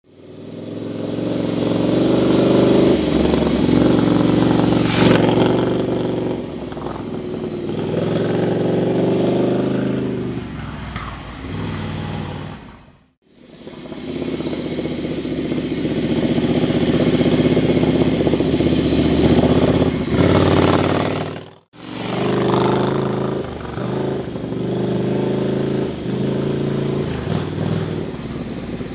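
Ducati Scrambler's air-cooled L-twin engine running as the motorcycle rides past, its note rising and falling with the throttle. The sound cuts off abruptly twice, about 13 and 22 seconds in, between shots.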